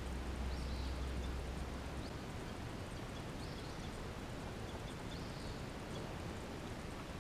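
Outdoor background hiss with a faint bird chirping every second or two, and a low hum that fades out about two seconds in.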